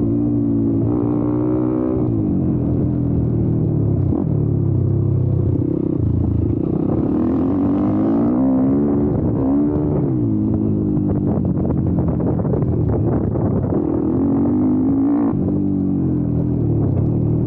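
YCF Bigy 190 pit bike's single-cylinder four-stroke engine under way, its pitch climbing under throttle and dropping off several times as the rider accelerates, shifts and backs off.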